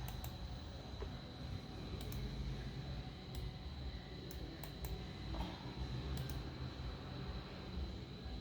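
Printer cooling fan running, with a steady low hum and a thin high whine, and scattered computer mouse and keyboard clicks over it.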